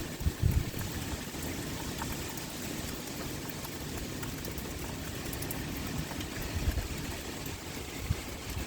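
Steady heavy rain, an even hiss, with a few brief low thumps, one about half a second in and two more near the end.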